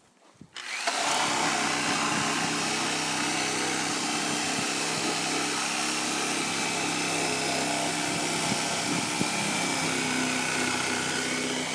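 A motor starts abruptly about a second in and runs steadily at an even speed.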